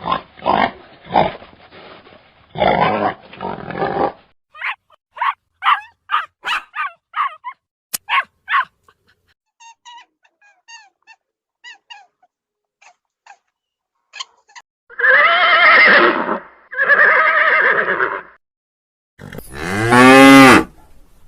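A run of different animal calls: short repeated calls and faint chirps, then two loud drawn-out calls, and near the end a cow's loud moo.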